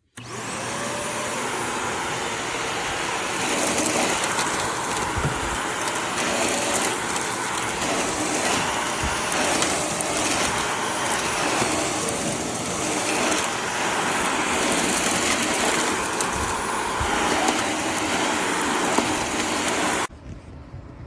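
Shark Navigator Lift-Away upright vacuum switched on, its motor whining up to speed, running steadily for about twenty seconds, then switched off suddenly near the end.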